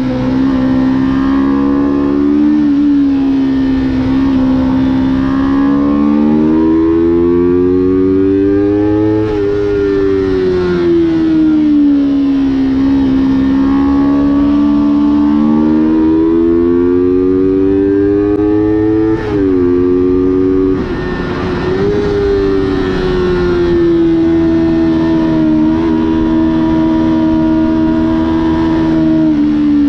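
Onboard sound of a motorcycle engine lapping a race track. Its note climbs as the bike accelerates and falls away into corners, several times over, with a sudden break in the note about two-thirds of the way through.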